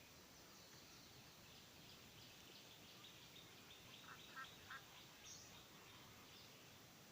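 Chicks peeping faintly in a quick series of short, high peeps, with three short, slightly louder calls a little over halfway through.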